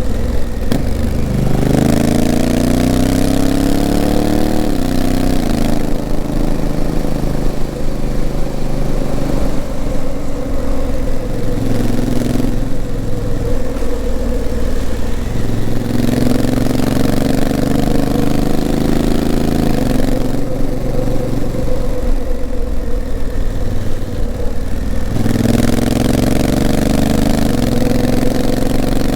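Honda CRF1000L Africa Twin's 998 cc parallel-twin engine running under way, heard from on the bike. Three times it pulls up with a rising pitch that then falls away, with steadier running in between.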